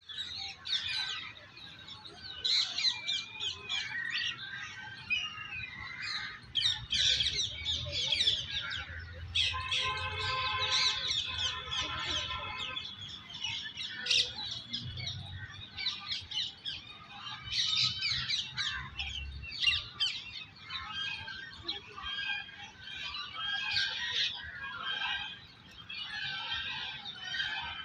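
Many birds chirping and calling at once, a dense overlapping chorus of short high chirps and trills, with a harsher, drawn-out squawking call about ten seconds in.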